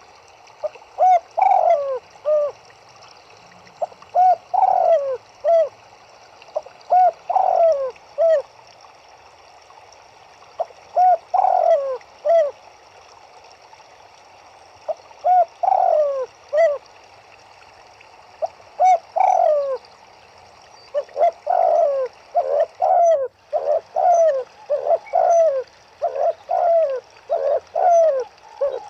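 Turtledoves cooing: repeated phrases of several low, falling coo notes a few seconds apart, running together into a longer string of coos in the last third. A faint steady hiss sits underneath.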